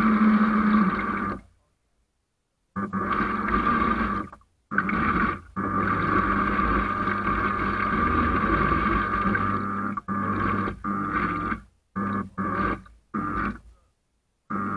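Boat motor running with a steady whine over a low rumble, cutting off abruptly to silence several times.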